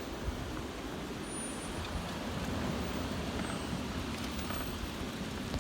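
Heavy rain and gusting wind of a severe thunderstorm, a steady rushing noise with a low rumble, swelling slightly in the middle.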